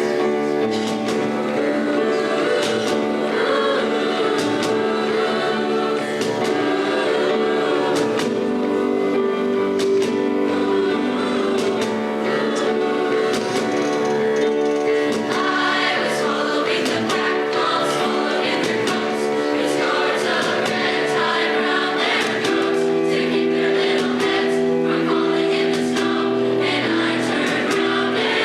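High school choir singing long held chords, with a change of chord about three-quarters of the way through.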